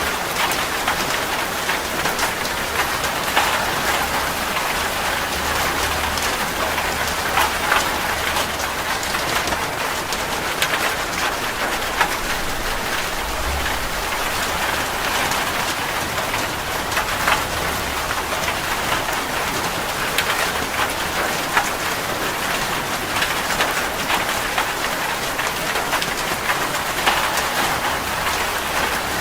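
Heavy rain drumming steadily on a metal roof, with dense, sharp drop strikes. A low rumble of distant thunder runs through the middle and swells briefly about halfway through.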